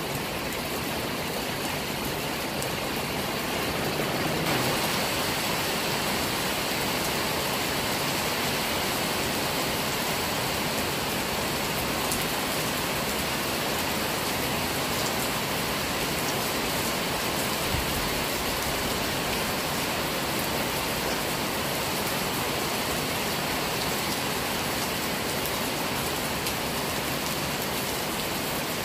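Heavy rain falling steadily on trees and grass.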